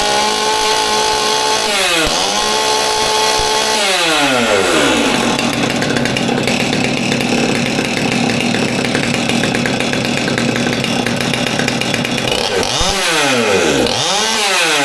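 Stihl MS200T two-stroke top-handle chainsaw, freshly rebuilt with a new fuel line, being test-run. It is revved and held high twice with a brief dip between, drops to a steady idle, and is blipped twice near the end.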